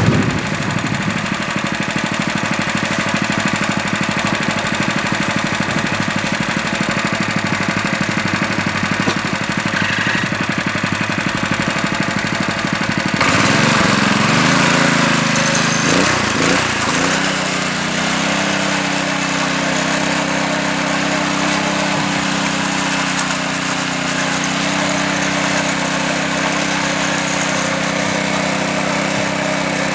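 Small engine of a concrete power trowel running steadily. About 13 seconds in the sound changes abruptly, and from about 18 seconds a steadier engine note holds.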